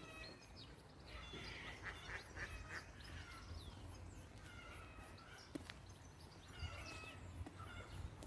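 Several birds chirping and calling in short, overlapping bursts, faint, over a low rumble.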